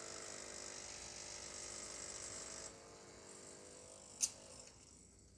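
Anko espresso machine's vibratory pump buzzing steadily during an espresso extraction, dropping to a quieter buzz about halfway through. A single sharp click comes near the end.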